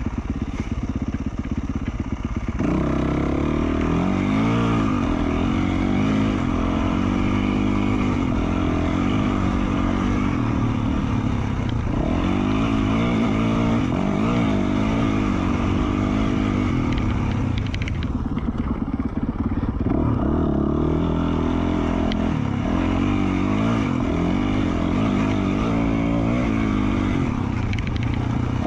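2020 Yamaha YZ450F's single-cylinder four-stroke engine with an FMF Q4 slip-on exhaust, being ridden: its pitch rises and falls as the throttle opens and closes. It is quieter for the first couple of seconds, then picks up, and eases off briefly about eighteen seconds in.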